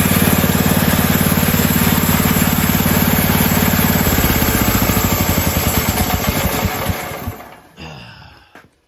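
Small pull-start gas engine on a portable sawmill running steadily. About four seconds in it is shut off, and it slows and coasts to a stop over the next few seconds.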